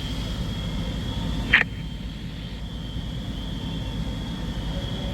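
Fire apparatus engines running at the fireground, a steady low drone with a faint steady high whine over it. There is one short sharp click about a second and a half in.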